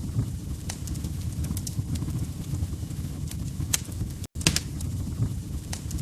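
Log fire crackling in a fireplace: a steady low rumble of burning with sharp pops and snaps scattered irregularly through it, a few louder ones just before and after the middle. The sound cuts out completely for a split second about four seconds in.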